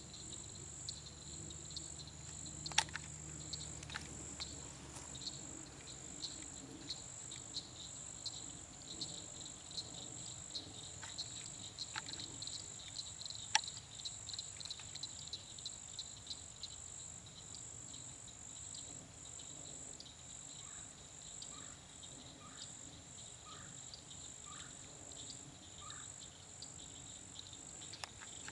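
Steady high-pitched chorus of crickets buzzing and pulsing, with two sharp clicks and, about two-thirds of the way in, a run of about six short chirps.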